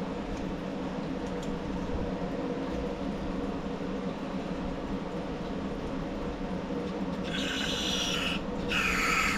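Two short hissing sprays near the end, about a second each with a brief gap, over a steady low hum from the workshop.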